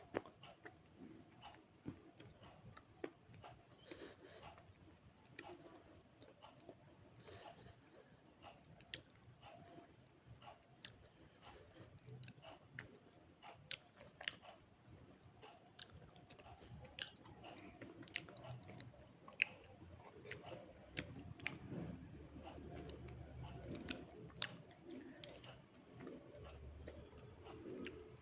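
Close-miked chewing of slate pencil and multani mitti (fuller's earth): sharp, irregular crunches and snaps as the pieces are bitten and broken. In the second half the chewing becomes fuller and more continuous.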